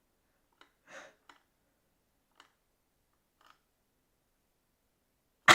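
Mostly quiet, with a few faint clicks and a soft short noise about a second in. A loud voice cuts in suddenly at the very end.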